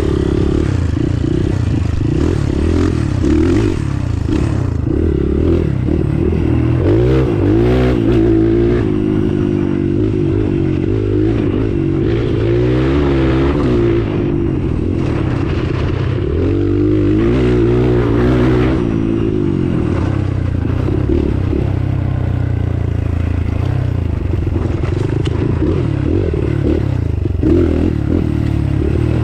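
Small off-road motorcycle engine being ridden on a rough trail, revved up and down in several swells, with clattering and scraping from the ride.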